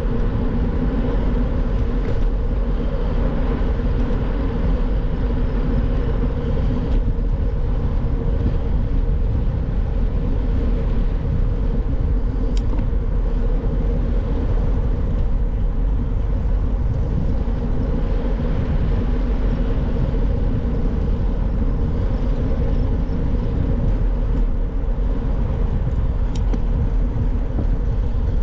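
Steady wind rush on the microphone and tyre hum while riding a bicycle along a road, with two short clicks, one about halfway through and one near the end.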